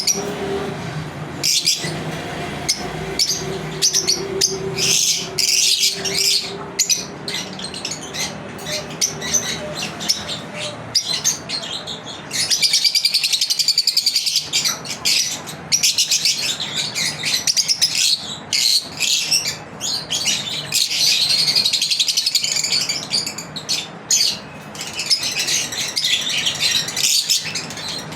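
Pet lovebirds chirping rapidly and shrilly, with several spells of continuous, dense chattering several seconds long.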